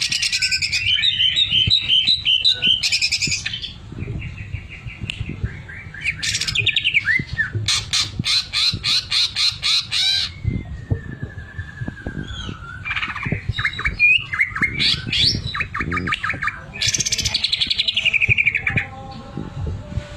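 A cucak ijo (green leafbird) sings a loud, varied song of fast rattling trills and runs of rapid repeated notes, with a long falling whistle near the middle. The machine-gun-like repeated strokes are the 'sewing machine' (mesin jahit) filler that bird keepers train into the song.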